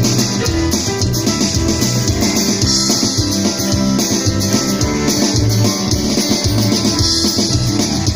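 Band playing an instrumental passage of a rock song: guitar over a drum kit, with a steady beat.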